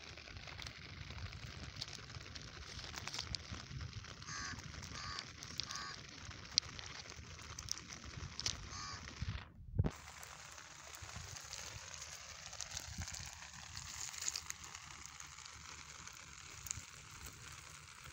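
Rain pattering on wet river stones, a steady hiss with scattered drop ticks. About four seconds in come three short honking calls in quick succession, and another near nine seconds.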